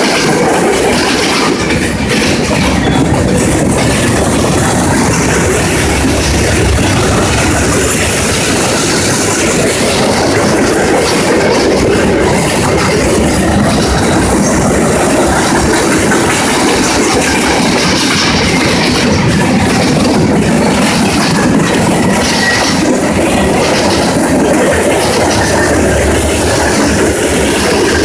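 Freight train's tank cars and boxcars rolling past close by: a steady, loud rumble of steel wheels on the rails with continuous clickety-clack.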